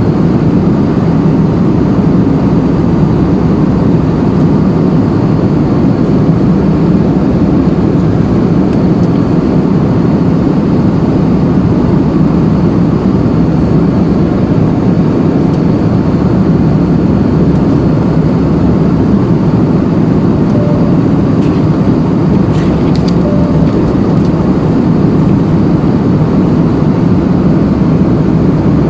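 Steady, unchanging low rumble of a vehicle's interior noise, with a few faint short beeps and clicks in the second half.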